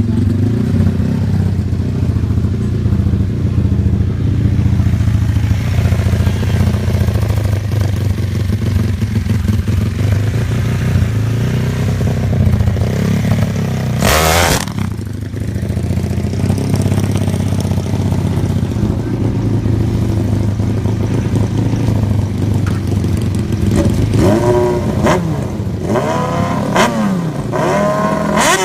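Superbike engines running loudly and steadily, with a brief loud burst about halfway through and a series of quick rising revs near the end.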